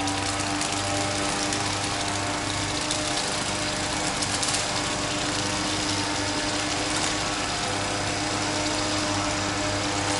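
Loud, steady running of an unseen engine-driven machine: an even mechanical drone with fixed tones, no change in speed.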